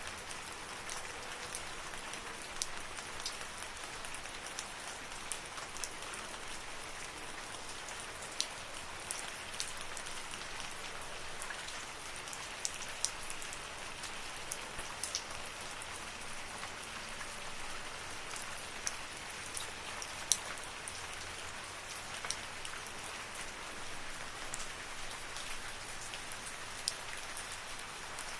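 Steady rain in a forest: an even hiss of rainfall with many separate drops pattering and clicking close by, a few louder ones standing out.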